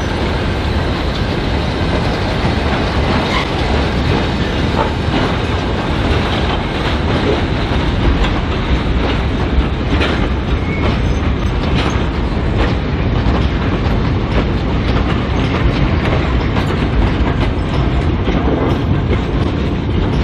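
Train rolling past, wagon and carriage wheels clacking over the rail joints in a string of irregular clicks over a steady loud rumble.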